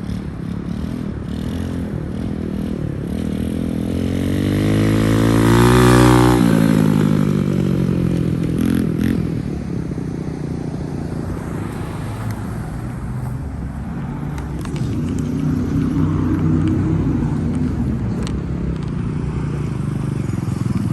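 Small motorbike engine running, rising in pitch and loudness to its loudest about six seconds in, then dropping in pitch and running on more steadily.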